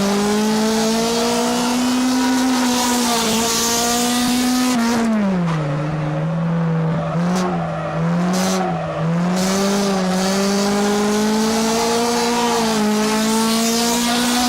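Race car engine heard from inside the cockpit, running hard, then dropping in pitch as the throttle is lifted about five seconds in. A few short throttle blips follow before it pulls back up to speed.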